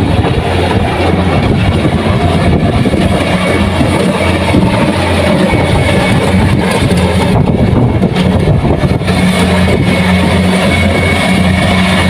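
Kubota rice combine harvester running steadily, its diesel engine and machinery making a continuous loud drone with a steady low hum.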